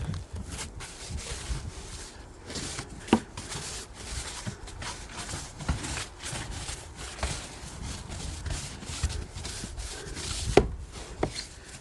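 Snow crunching and scraping in repeated strokes, a couple a second, with a few sharp knocks, one about three seconds in and two near the end.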